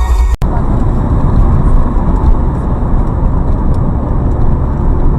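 Steady low rumble of a car driving, road and engine noise picked up by a dashcam. It cuts in abruptly just after a snatch of music ends.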